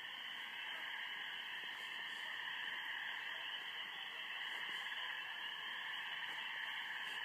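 Dense spring peeper chorus from a pond: countless high peeps blending into a steady, shrill trill that holds even throughout.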